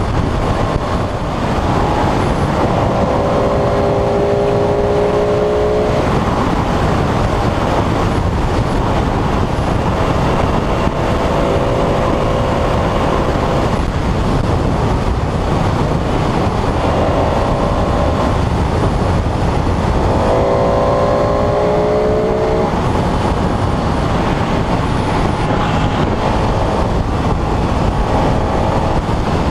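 Sportbike riding at speed: a steady rush of wind noise, with the engine's pitched note coming through in stretches of a few seconds each.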